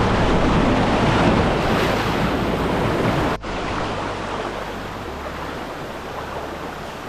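Rushing river water, loud and steady, with a sudden break about three and a half seconds in, after which the water rush continues more quietly.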